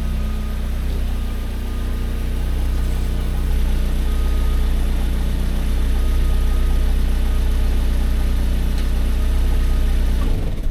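Vauxhall Corsa B engine idling steadily through its rusted, leaking exhaust, then stopping abruptly near the end.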